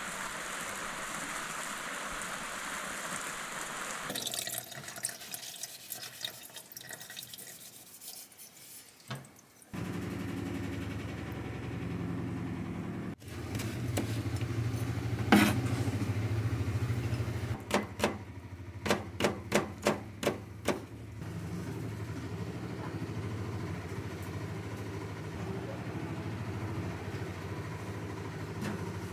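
Kitchen sounds in turn: water running from a tap for a few seconds, then small handling clicks and knocks. After that comes a steady low hum with a quick run of about ten sharp clicks in the middle.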